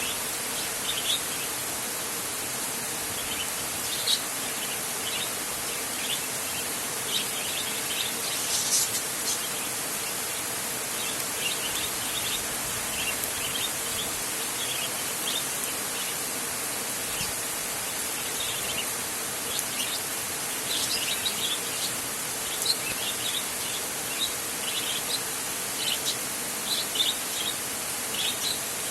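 Steady rain with scattered short bird chirps, more frequent near the end.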